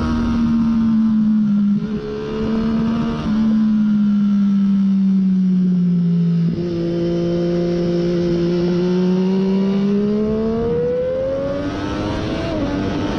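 Onboard sound of a 2014 Triumph Daytona 675's inline three-cylinder engine through a Hindle slip-on muffler, lapping a race track. The revs sink over the first few seconds with two sudden jumps in pitch, then climb steadily from about halfway through.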